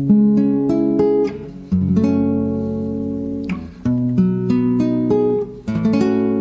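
Acoustic guitar playing an instrumental passage of a song: strummed chords struck about every two seconds, with single picked notes ringing between them.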